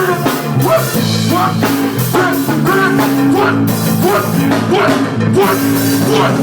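Live band playing an instrumental rock groove: drum kit keeping a steady beat under a bass guitar line and electric guitar phrases.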